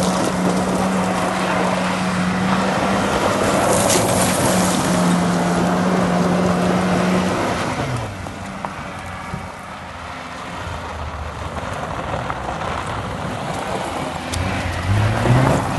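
Tofaş Doğan SLX's four-cylinder engine pulling at steady revs with wind noise; about seven seconds in the engine note falls away as the car slows, and near the end the revs climb again.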